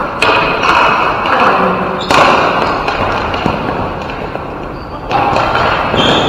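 Ball hockey play: a handful of sudden thuds and knocks, a few seconds apart, from the ball, sticks and players striking the boards, over the continuous noise of the game.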